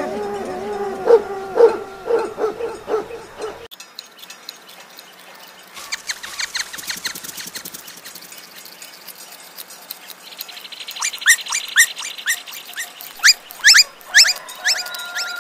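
A boxer puppy whining and yipping in short, quick cries for the first few seconds, then a sudden change to small birds chirping in rapid high notes, with a buzzy trill after the middle and a held whistle near the end.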